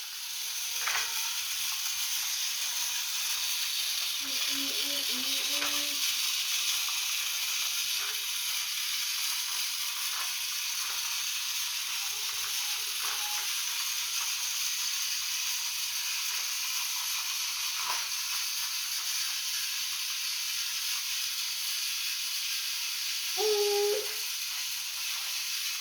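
Battery-powered GeoTrax toy train running along plastic track, a steady whirring hiss. Brief short pitched sounds come about four seconds in and again near the end.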